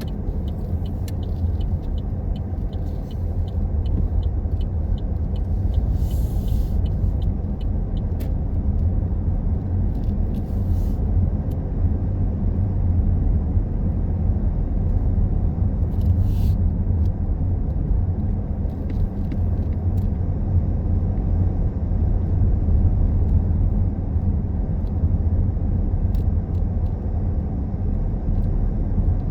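Car driving along a road: a steady low rumble of engine and tyres. It has faint regular ticking during the first several seconds and a few brief hissing swells.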